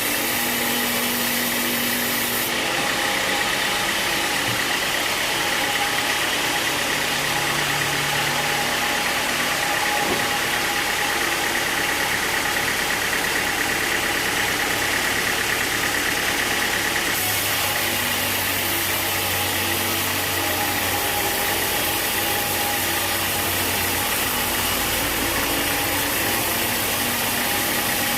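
Sawmill machinery running steadily, an even engine-like drone with a constant high whine and no cutting heard.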